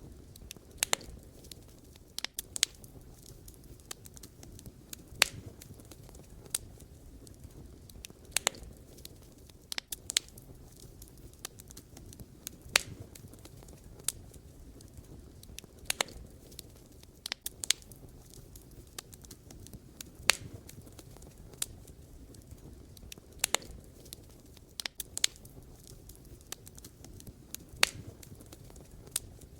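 Wood fire burning, with sharp irregular crackles and pops over a low steady rumble of the flames.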